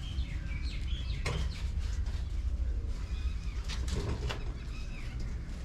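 Small birds chirping in short, scattered calls, with a few sharp clicks or flaps, over a steady low rumble.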